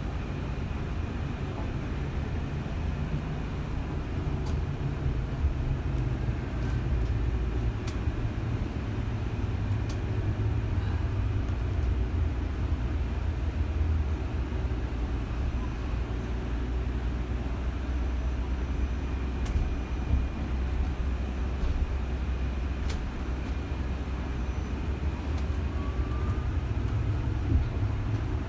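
Steady low rumble of a moving vehicle running at an even pace, with a few faint clicks.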